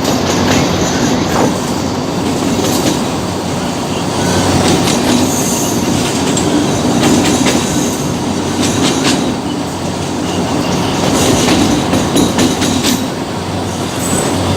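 Train running along the track, a steady loud rumble with its wheels clicking over the rail joints.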